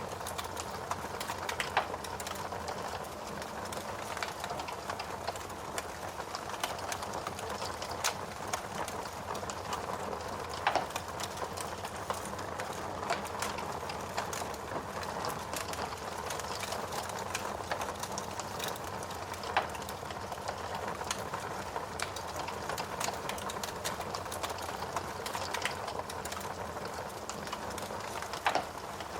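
Wood fire burning in a fireplace: a steady rush of flames with dense, irregular crackling of burning logs and a few louder pops now and then.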